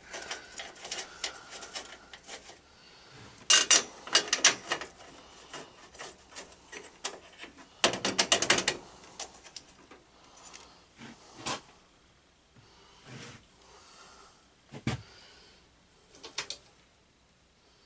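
Hand-tool work on a lawn tractor: two bursts of quick clicking like a ratchet wrench, one a few seconds in and another about halfway, with scattered single knocks of tools and parts being handled.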